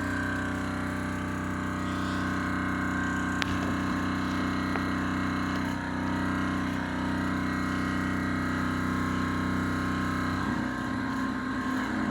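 Thermoacoustic engine running with a steady hum of several held tones, with a single click about three and a half seconds in; near the end the hum turns rough and unsteady.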